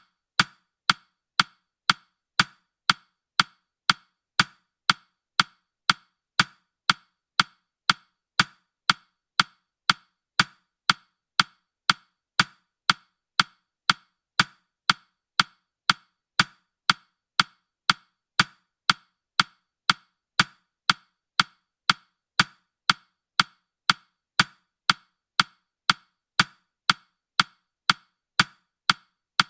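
Countdown timer's clock-tick sound effect: short, sharp ticks, evenly spaced at a steady rate.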